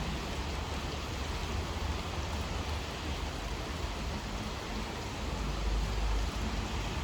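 Steady rain falling, an even hiss with a deep rumble underneath.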